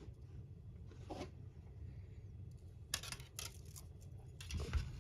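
Faint handling noises: a few short scrapes and rustles of small plastic model-kit parts and wires being handled, over a low steady hum.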